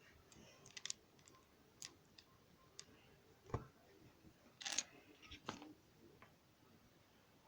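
Scattered light clicks and taps of plastic LEGO pieces being handled and pressed together, with a duller knock about three and a half seconds in and a quick cluster of clicks near five seconds.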